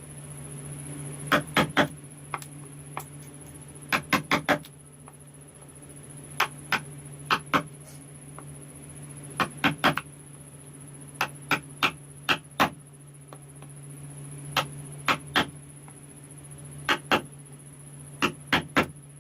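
Mallet tapping a carving chisel into wood: sharp knocks, mostly in quick clusters of two or three with irregular pauses between, over a steady low hum.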